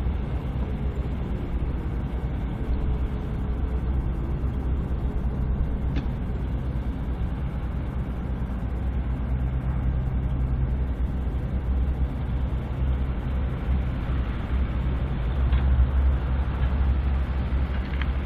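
Low, steady rumble of a BNSF diesel freight train, with a couple of faint clicks.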